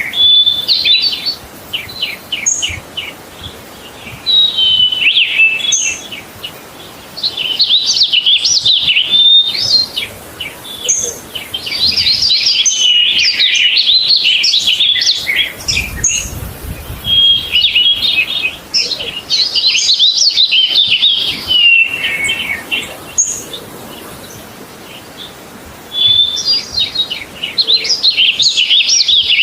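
A songbird singing: phrases of a few seconds of rapid, varied high chirps and trills, repeated with short pauses between them.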